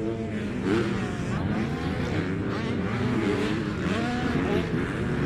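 Several motocross bikes racing at once, their engines revving up and dropping back in overlapping rising and falling whines.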